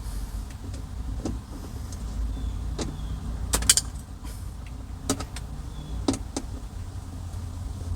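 Scattered sharp clicks and knocks of a tool working the 8 mm bolts along the bottom of a car door panel, including a quick run of clicks near the middle, over a steady low rumble.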